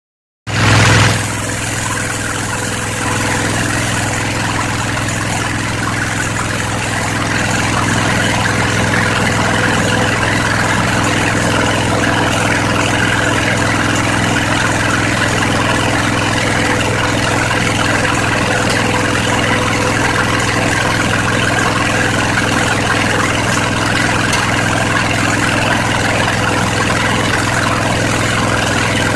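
Briggs & Stratton 22 HP Intek V-twin engine running steadily without exhaust gaskets, with a brief louder swell just after the sound begins and a slight rise in level several seconds in.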